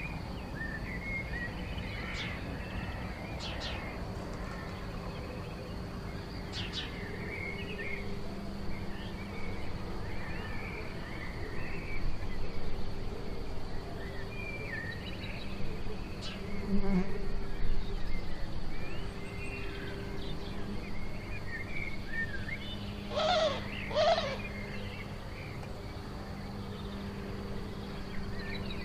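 Garden birds chirping and calling, with short scattered notes and two louder, harsher calls a second apart about 23 seconds in. A steady low buzz runs underneath.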